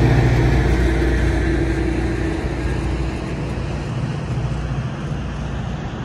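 GO Transit diesel commuter train running past with a heavy low rumble that slowly fades as it draws away.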